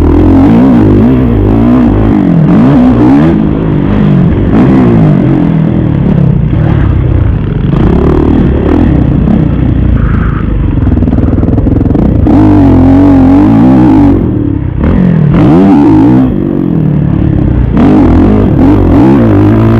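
Kawasaki KX450 motocross bike's single-cylinder four-stroke engine, loud, revving up and dropping back again and again as it is ridden hard around the track.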